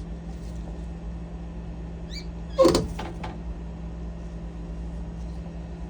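Steady low electrical hum from the Whirlpool refrigerator during a water valve test, with one short, louder sound about two and a half seconds in.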